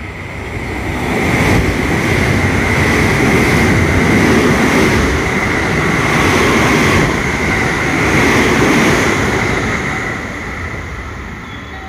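Train passing on the main line: the rumble of wheels on rail swells over about a second and a half, holds steady with a thin high-pitched ring above it, then fades over the last few seconds.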